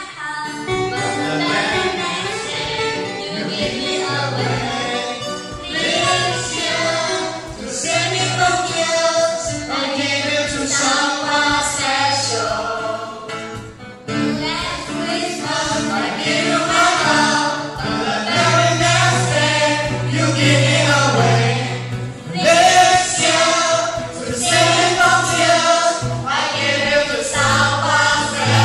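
Group of young men and women singing a song in unison and harmony, with guitar accompaniment and a low bass line underneath.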